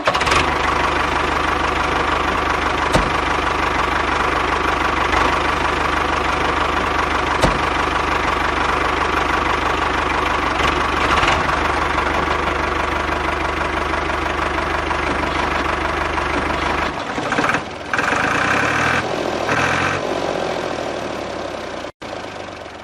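A small motor runs steadily with a dense mechanical whir. A few seconds before the end its low hum drops out, the sound wavers unevenly, and then it fades away.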